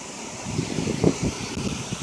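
Hurricane wind gusting and buffeting the microphone in uneven low rumbles, strongest about a second in, over a steady hiss of heavy rain.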